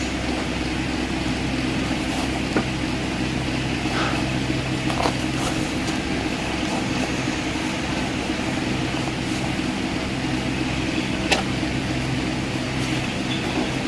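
Steady low mechanical hum, with a few brief clicks over it.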